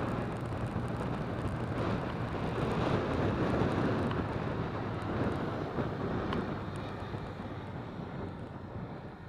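Jet airliner passing by: a broad rush of engine noise that swells to its loudest about three to four seconds in and then fades steadily away.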